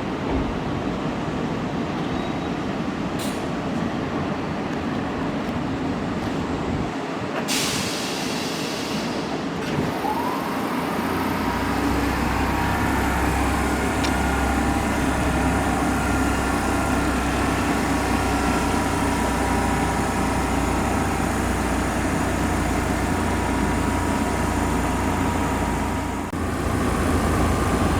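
Kintetsu Minami-Osaka Line electric train at a station: a hiss of air about seven seconds in, then from about ten seconds a rising motor whine with a low rumble.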